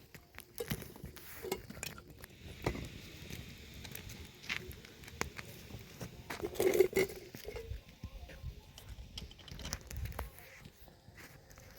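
Intermittent light knocks and clatter of objects being handled, with a louder cluster about seven seconds in.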